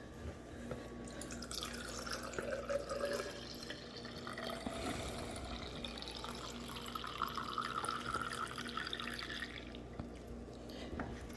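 Lemonade being poured into a cup. The pouring tone rises in pitch as the cup fills, and the pour stops near the end.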